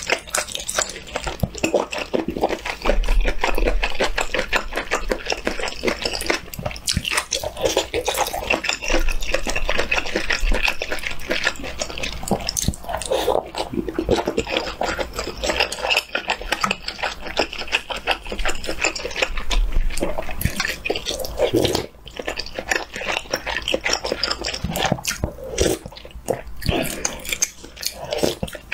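Close-miked chewing of spicy stir-fried octopus and rice, a steady run of wet mouth clicks and smacks as the mouthful is worked, with a new bite taken near the end.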